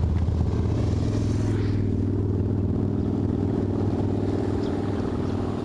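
BMW M3 engine and exhaust running at steady revs, a low, even drone whose pitch steps up slightly just under a second in.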